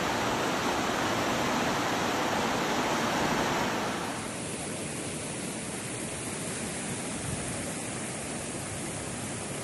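Fast floodwater of a swollen river rushing, a steady noisy roar of water that drops suddenly to a quieter, duller rush about four seconds in.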